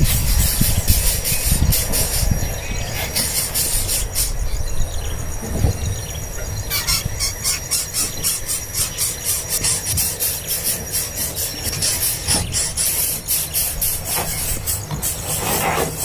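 Young birds begging for food: rapid, harsh, high-pitched rasping calls coming in bursts every few seconds, over a low rumble.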